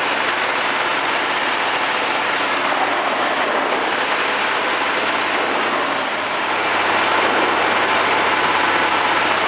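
Steady cockpit noise of a Cessna 210D on landing approach: the engine and propeller running with the rush of air over the cabin, a low steady hum under an even wash of noise. It gets slightly louder from about six and a half seconds in.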